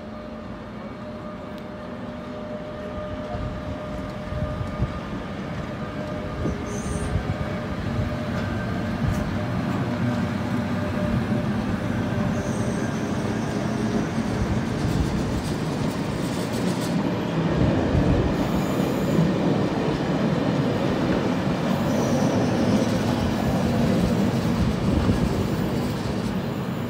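Locomotive-hauled test train of two Class 73 locomotives and coaches passing slowly, the wheels rumbling and clattering over the rails and growing louder as it comes close. A few brief high-pitched wheel squeals come through it.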